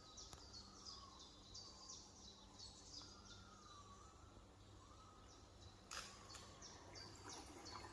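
Near silence: faint outdoor background noise with a small high chirp repeating about twice a second, and a brief noise about six seconds in.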